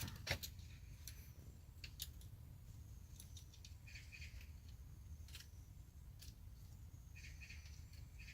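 Faint puppy play: scattered sharp clicks and taps, with a few brief high squeaks about four seconds in and again near the end, over a low steady hum.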